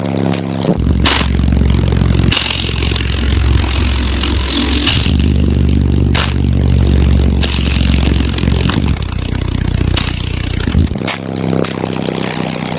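Music played loud through a pair of Sundown SD10 shallow-mount 10-inch subwoofers in a truck cab: heavy deep bass, with a rattling, scraping noise over it. The bass comes in about a second in and drops away near the end.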